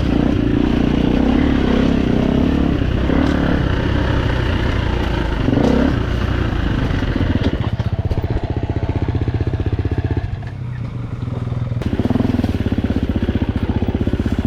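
Four-stroke single-cylinder dirt bike engine running under load while riding, easing off for a moment about ten seconds in, then pulling again.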